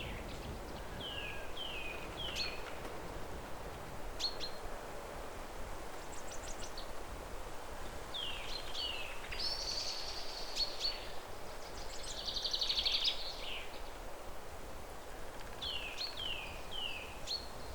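Birds calling over steady outdoor background noise: short high calls that slide downward, in runs of three, recur near the start, about halfway through and near the end, with a couple of longer buzzy trills in between.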